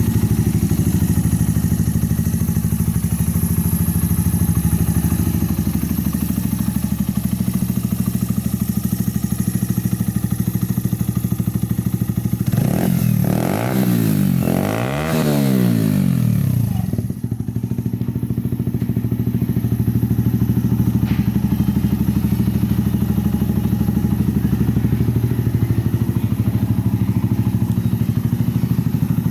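Mutt Mongrel 125 motorcycle's single-cylinder engine idling steadily, revved twice in quick succession about halfway through, then settling back to idle.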